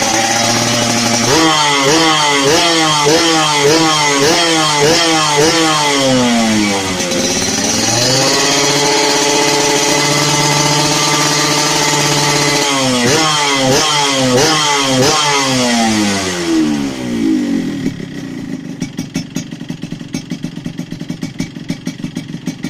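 Yamaha RX-King's two-stroke single-cylinder engine revved through an underslung racing exhaust. The revs are held high, then blipped up and down about twice a second, held high again, blipped again, and dropped to a lumpy idle near the end.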